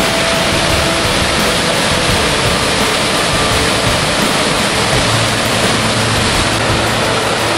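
Waterfall rushing: a loud, steady wash of falling water, with faint music underneath.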